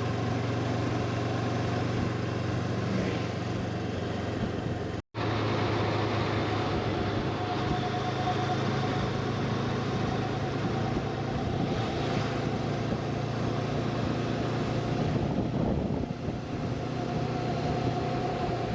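Honda CB500X parallel-twin motorcycle running steadily on the move, with a constant engine hum and a rush of wind noise, briefly cut about five seconds in.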